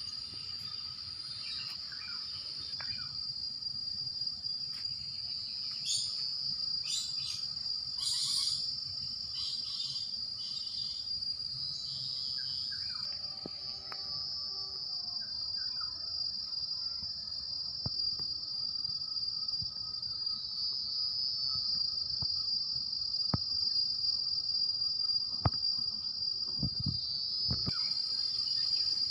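Insects shrilling in one continuous high, steady tone, with a run of short bird chirps between about six and twelve seconds in and a few sharp knocks near the end.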